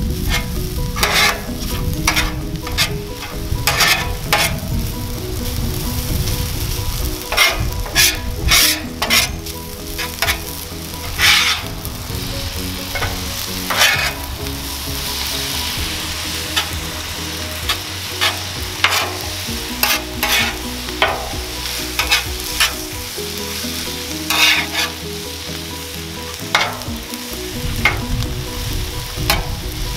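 Fried rice and vegetables sizzling on a Blackstone steel flat-top griddle. Metal spatulas scrape and clack against the cooktop at irregular intervals as the rice is tossed and chopped.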